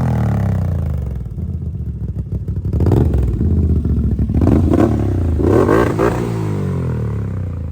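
Can-Am Outlander ATV's V-twin engine through an RPM stainless single-chamber sport slip-on muffler. It comes off the throttle, falling in pitch over the first second and a half, then revs up and back down several times, around three, four and a half and six seconds in.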